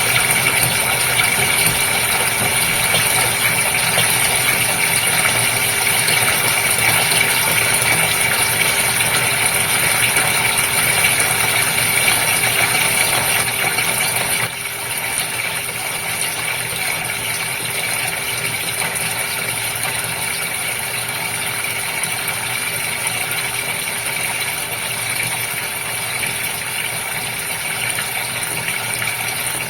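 Steady sound of running water with a constant motor hum from a goldfish aquarium's pump. It drops a little in level about halfway through.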